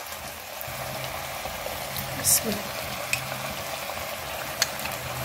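Chicken and tomato masala sizzling in a wok over a high flame while a slotted spatula stirs it and yogurt is spooned in, with a sharp brief hiss about two seconds in and a few light clicks of the spatula against the pan. A faint low hum starts under a second in.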